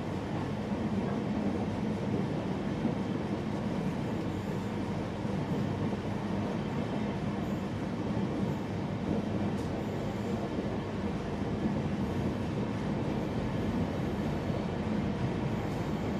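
Passenger express train coach running along the track, a steady, even rumble of wheels and carriage with no distinct clicks or changes.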